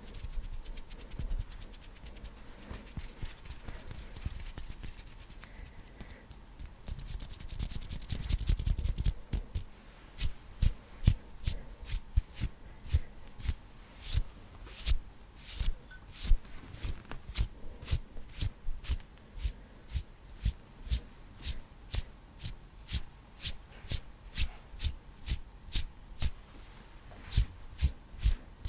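Fast ASMR hand sounds close to the microphone: quick rubbing and fluttering of the hands, then, from about a third of the way in, a steady run of sharp hand strikes at about two or three a second.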